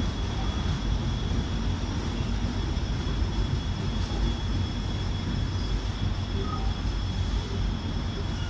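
Steady low rumble of an approaching passenger train, with a thin, steady high tone above it.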